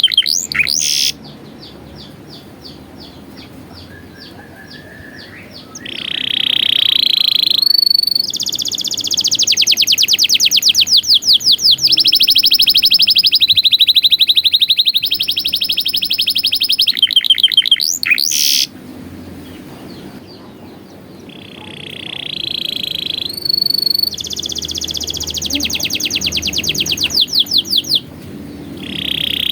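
Domestic canary singing a long song of rapid rolling trills and repeated notes, with loud phrases broken by softer passages.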